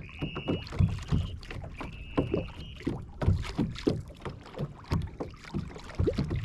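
Water slapping and splashing against a plastic fishing kayak's hull in irregular knocks as it cruises under trolling-motor power. A high, steady whine sounds twice in the first three seconds.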